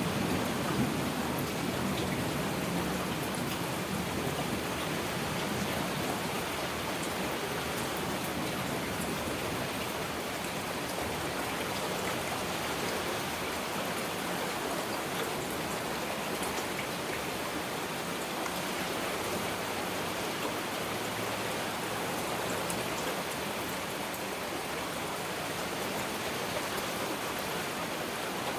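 Steady heavy rain, an even hiss with scattered faint drop ticks. The tail of a thunder rumble dies away in the first couple of seconds.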